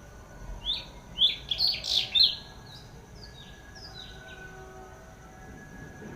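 A bird calling a quick run of loud, sharp, falling chirps in the first couple of seconds, followed by a few fainter ones, over a steady high insect drone.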